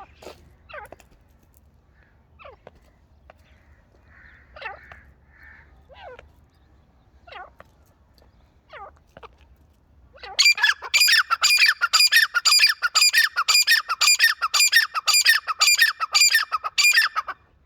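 Francolins (teetars) calling: scattered short, sharp calls, then about ten seconds in a loud, shrill run of rapidly repeated notes, about four a second, lasting some seven seconds.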